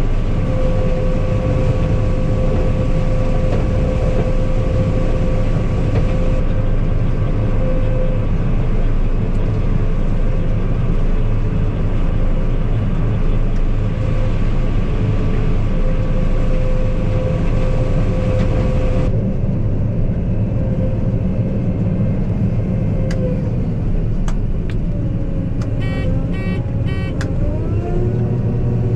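Loaded-route grain truck engine running steadily on the road. Near the end the engine note drops for a few seconds, then climbs again as it picks back up.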